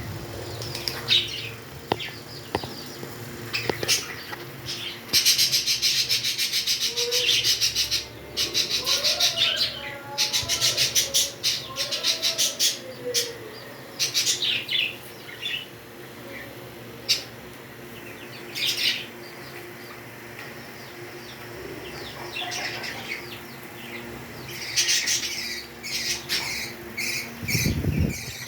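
Pet parrots chattering and squawking: long bursts of rapid, high-pitched chatter with sharp single calls between them, thinning out for a while around the middle before picking up again near the end.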